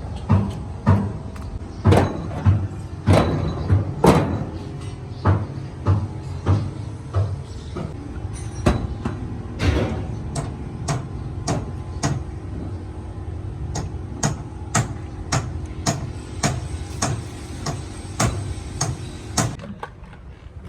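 A series of sharp knocks and clicks, about one a second, over a steady hum that stops near the end.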